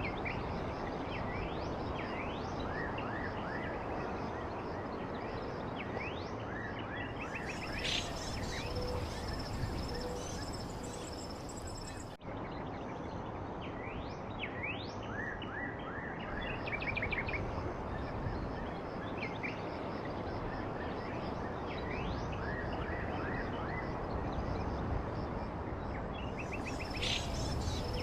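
Small birds chirping in short, quick rising and falling calls over a steady background hiss, with a high steady insect-like buzz coming and going. The sound drops out for an instant about twelve seconds in.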